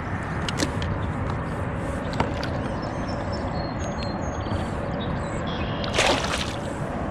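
Water sloshing around the kayak, with a couple of light knocks and a brief louder splash about six seconds in.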